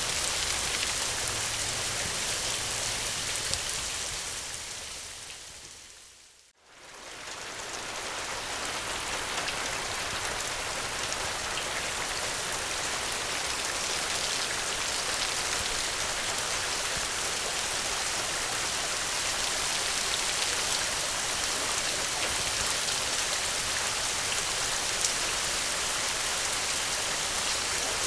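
Steady rain falling, an even hiss of drops. About six seconds in it fades away to near silence and swells back up within a couple of seconds, then carries on steadily.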